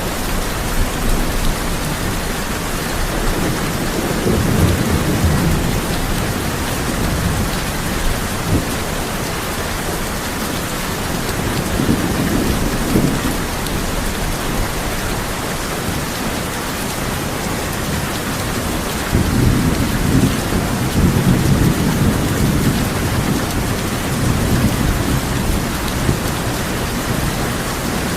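Heavy rain drumming steadily on a tin roof, with rolls of thunder rumbling low about four seconds in, again around twelve seconds, and a longer roll from about nineteen seconds.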